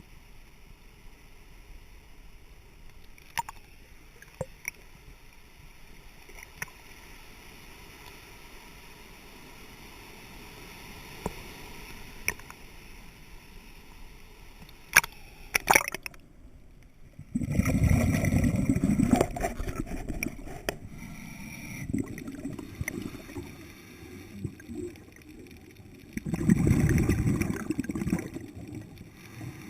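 Bubbles from a scuba diver's regulator rushing and gurgling twice, several seconds apart, over faint water noise with scattered sharp clicks.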